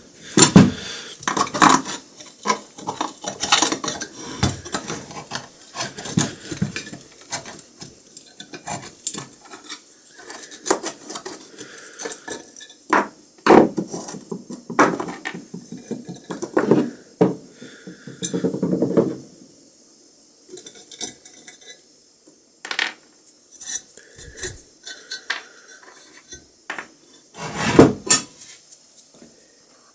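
Hand tools and metal parts of an antique iron clinking, tapping and knocking irregularly as it is taken apart, with a louder knock near the end.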